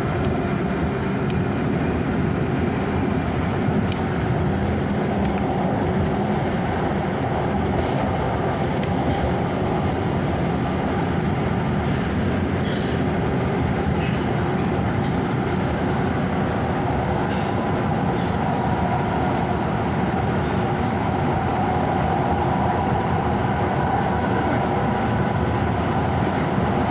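Freight train rolling past steadily, a continuous rumble of wheels and cars on the rails, with a few brief high sharp sounds in the middle.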